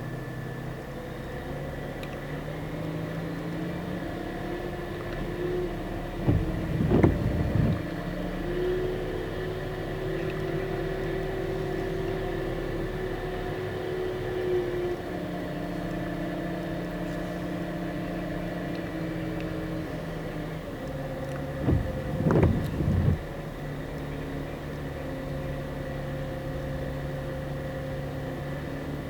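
Truck engine running, heard from inside the cab, its pitch stepping up and down with road speed. Two brief louder noises come through, about seven seconds in and again about twenty-two seconds in.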